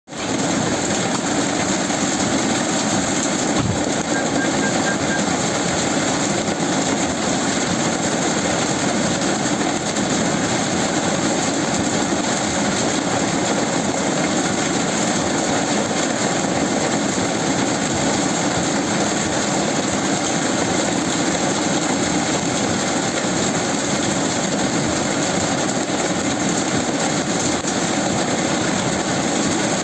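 Heavy rain pouring down steadily, a dense even hiss, with one brief low knock about four seconds in.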